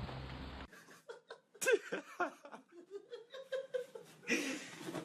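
A person laughing in a run of short bursts, rising and falling in pitch.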